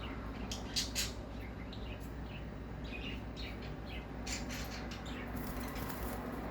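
Cockatiel's beak crunching and tearing at a Chinese long bean to get at the seeds: scattered small clicks and crackles over a low steady hum.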